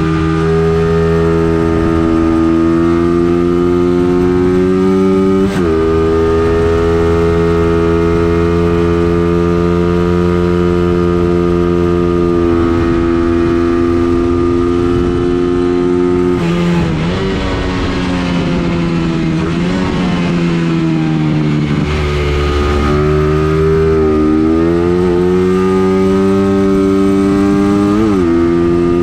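A racing vehicle's engine under load on a circuit lap: the note climbs slowly under acceleration, drops sharply at a gear change about five seconds in and again near the end, and falls and wavers through a braking and cornering stretch midway.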